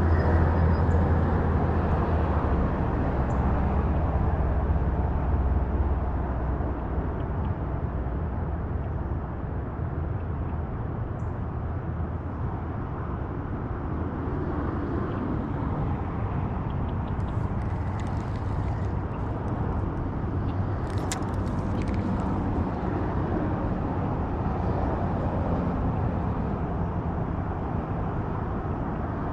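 Steady drone of interstate highway traffic, a little louder for the first several seconds, with a few faint brief clicks in the middle.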